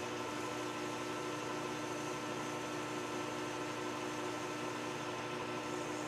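Metal lathe running steadily while boring out a hole in a steel part held in the chuck, an even machine hum with several steady tones.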